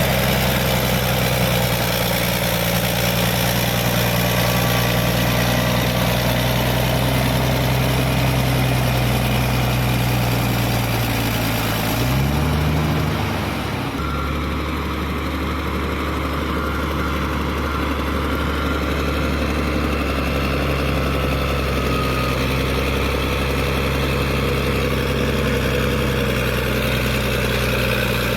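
Caterpillar D6D bulldozer's diesel engine running steadily. About twelve seconds in, the engine note briefly rises and then settles to a new steady pitch.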